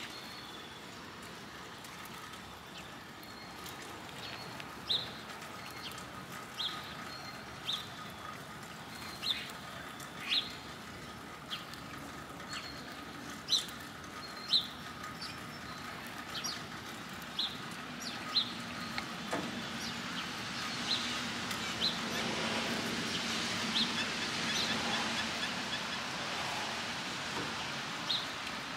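A small bird chirping outdoors: short, high single chirps repeated irregularly every second or two. A soft rushing background noise swells in the second half.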